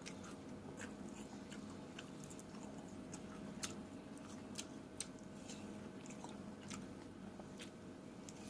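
Close-miked chewing of fresh fruit: wet, crisp little crunches and clicks at an irregular pace, two sharper ones about three and a half and five seconds in, over a faint steady hum.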